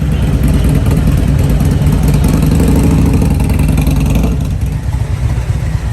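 Motorcycle engine running close by, a steady low rumble that is loudest for the first four seconds and then eases off.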